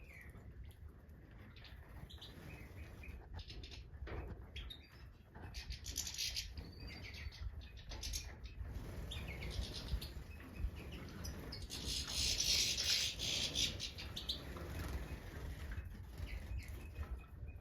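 European goldfinches of the Major race chirping and twittering in short bursts, with a louder run of rapid twittering about two-thirds of the way in. A steady low rumble sits underneath.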